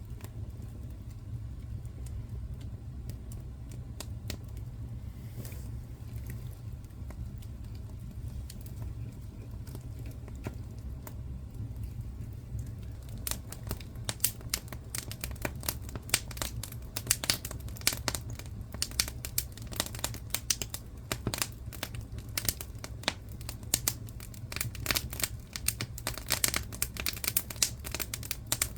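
Wood fire crackling in a fireplace over a steady low rumble. The pops are sparse at first and become dense and sharp from about halfway in.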